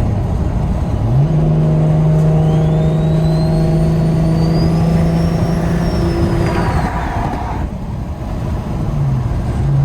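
BMW 335i's N54 inline-six with a single-turbo kit, heard from inside the cabin while driving: the engine note steps up about a second in and holds steady, with a high thin whine rising and falling over a few seconds. Near the end the engine eases off briefly, then the note settles lower.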